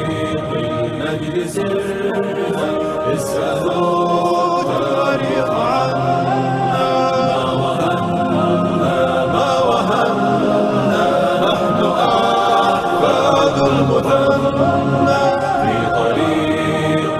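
A choir singing a slow, chant-like piece without instruments.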